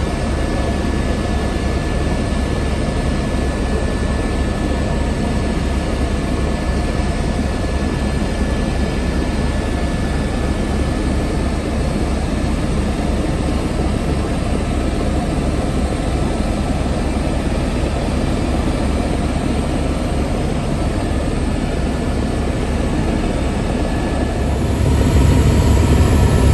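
Helicopter engine and rotor noise heard from inside the cabin, a loud, steady drone that grows louder near the end.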